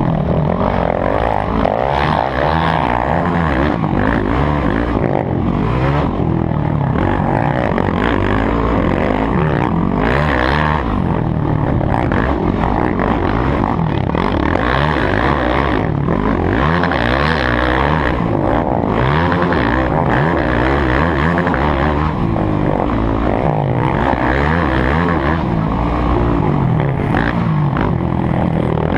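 Motocross bike engine revving hard, its pitch rising and falling over and over as the throttle opens and closes.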